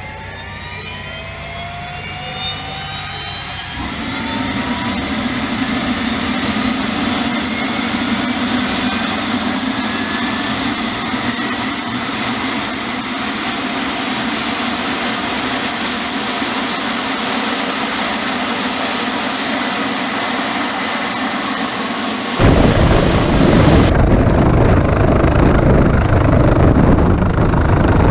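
Helicopter turbine engine starting up: a whine climbs steadily in pitch, joined by a steady low hum after about four seconds. About 22 seconds in it gives way abruptly to a much louder low rushing noise.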